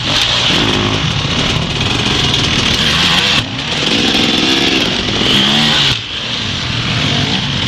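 Dirt bike engine running under throttle, its note rising and falling as the rider revs, dropping away sharply twice.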